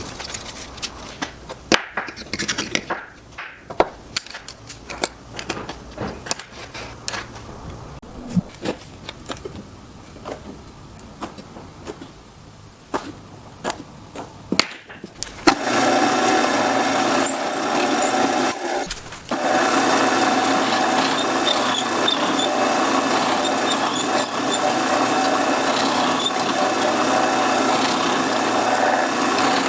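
Scattered clicks and knocks of wood pieces and tools being handled, then about halfway through a power tool starts and runs steadily on wood, stopping briefly a few seconds later before running on.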